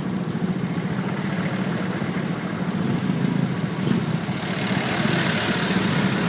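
Motorcycle engine running steadily, heard through a phone mounted on the bike. A short click comes about four seconds in, then a rush of hiss builds.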